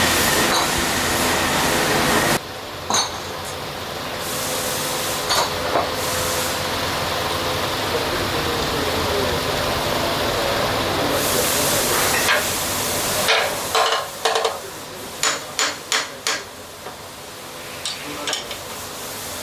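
Piston-factory machinery noise that changes abruptly a couple of seconds in, then a run of sharp metal knocks and clinks in the second half.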